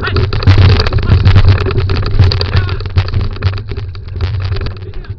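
Dog scooter rolling fast on a dirt trail: heavy wind rumble on the microphone with dense rattling and crunching from the wheels and frame, easing off toward the end.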